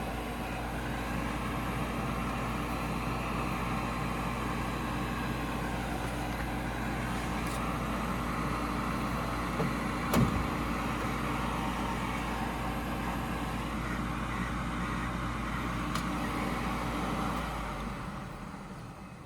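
Furnace draft inducer (flue) motor running steadily, with a single knock about halfway, then winding down near the end as it shuts off. The pressure switch is not closing, so the inducer keeps starting up and shutting down.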